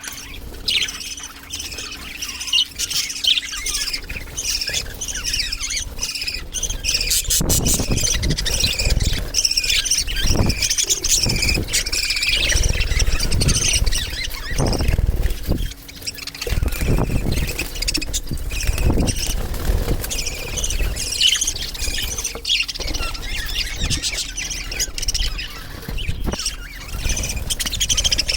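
Many budgerigars chattering together: continuous high chirps, warbles and squawks from a flock. A low rumble sits under the calls from about seven seconds in until around twenty seconds.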